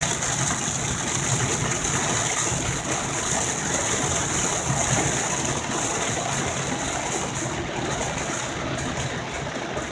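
Heavy rain on a moving car with tyres on the wet road, a steady hiss with a low rumble underneath.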